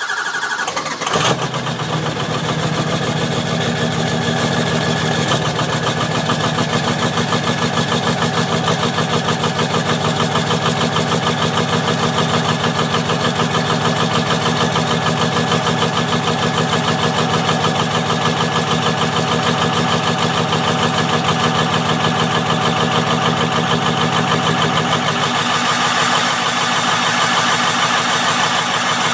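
2004 Ford F-250's 6.0-litre Power Stroke V8 turbo-diesel firing up on a cold start, catching about a second in, then idling steadily with a fast even pulse. Near the end a brighter, higher hiss joins the idle.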